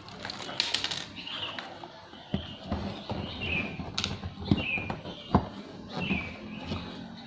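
Screwdriver and laptop case being handled while the bottom-cover screws come out: scattered small knocks and taps. A short, high, falling chirp repeats about every two-thirds of a second in the background.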